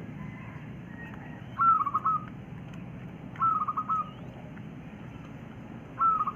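Quail calling: three short trilled calls, each a quick run of notes about half a second long, roughly two seconds apart.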